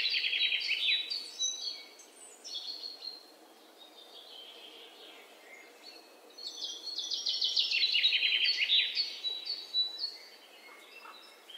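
Birds chirping in rapid trills of high notes, in two bouts: one fading out in the first second and a half, a louder one from about six and a half to nine and a half seconds in, over a faint steady hiss.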